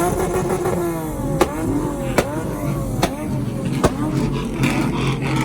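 Vehicle engine revved in quick repeated blips, its pitch rising and falling about once a second, each blip with a sharp crack, over a steady low rumble.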